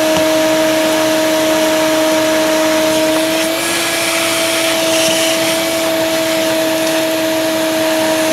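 Shop vac running steadily, sucking wet soil out from around buried sprinkler lines: a constant motor hum over the hiss of rushing air, its pitch lifting slightly about three and a half seconds in.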